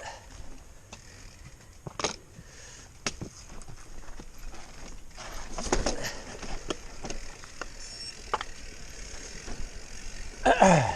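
Mountain bike being ridden over a rough trail: tyre noise on dirt and stones, with sharp clicks and knocks of the frame and chain scattered through. Near the end, a louder short sound slides down in pitch.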